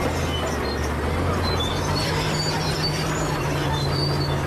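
Bulldozer's diesel engine running steadily under load, its note rising slightly about two seconds in, with short faint high chirps over it.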